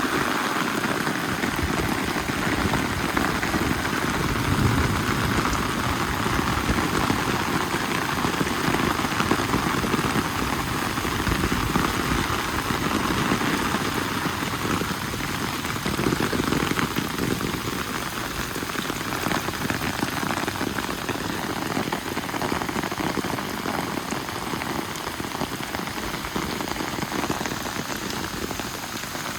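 Steady rain falling and pattering on surfaces close by.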